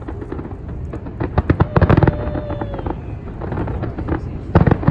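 Fireworks display bursting, with clusters of rapid sharp cracks and bangs about a second in and again near the end, over a steady low rumble.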